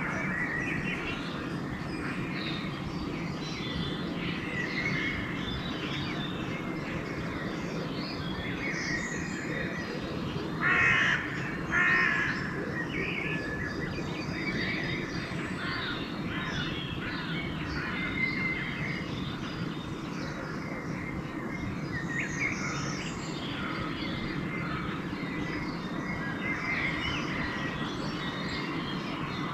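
Dawn chorus of small songbirds chirping and singing throughout, with a crow cawing loudly twice about eleven and twelve seconds in. A steady low rumble sits beneath the birdsong.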